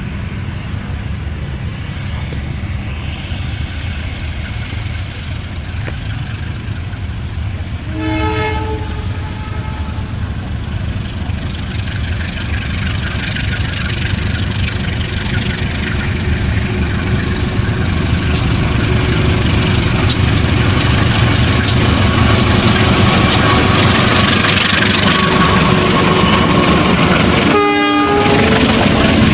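Diesel locomotive hauling a train, its engine and running noise growing steadily louder as it approaches, with two short horn blasts, one about eight seconds in and a shorter one near the end.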